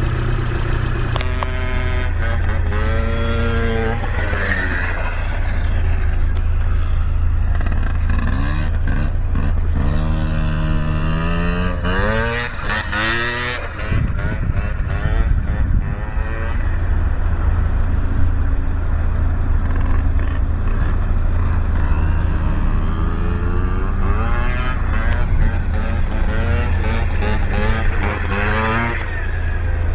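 A vehicle engine running with a steady deep drone. Its pitch climbs in several long rises, as when the engine is revved or the vehicle accelerates, then drops back.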